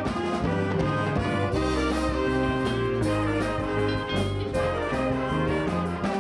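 School jazz band playing a Christmas tune, with brass (trumpets and trombones) carrying the held chords.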